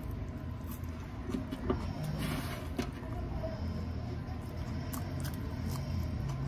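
Raw onion slice being bitten and chewed, with a brief crisp crunch about two seconds in and scattered small clicks, over a steady low rumble.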